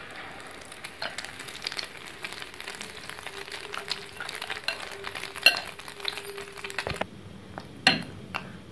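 Potato-and-egg tikkis sizzling as they shallow-fry in hot ghee in a small pan, with a few sharp clicks of a spoon against the pan.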